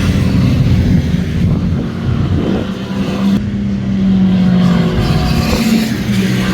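Sport motorcycle engine running steadily, its pitch easing down slightly about halfway through.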